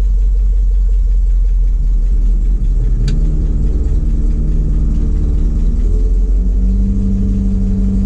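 Ford F700 truck's 370 V8 with four-barrel carburettor idling, with a short click about three seconds in as the PTO is shifted. About six seconds in a steady hum joins the engine: the PTO-driven hydraulic pump running.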